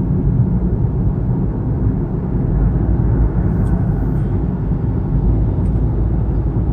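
Steady low rumble of road and engine noise inside the cabin of a Kia All New Morning (TA) while it is being driven.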